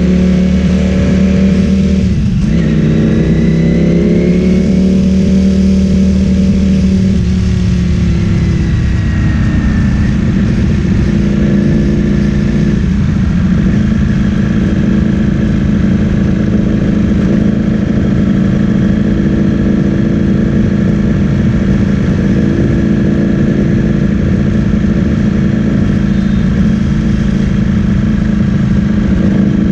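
Ducati Streetfighter V4S's V4 engine through an Akrapovic full-system exhaust. It shifts gear about two seconds in, pulls and then eases off, and from about ten seconds in settles to a steady low-rpm beat.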